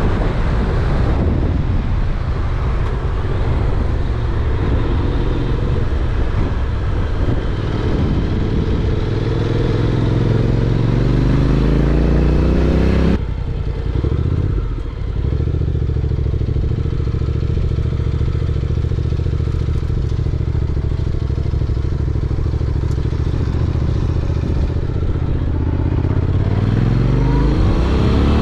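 Honda NC750X motorcycle's parallel-twin engine under way. Its pitch climbs steadily for about ten seconds, drops abruptly, holds steady, then climbs again near the end.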